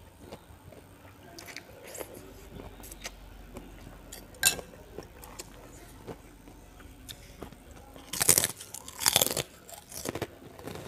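Close-miked chewing with small wet mouth clicks, then two loud crunches about eight and nine seconds in as a krupuk cracker is bitten.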